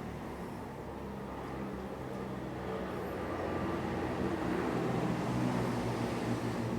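A motor running steadily with a low hum, getting a little louder about halfway through.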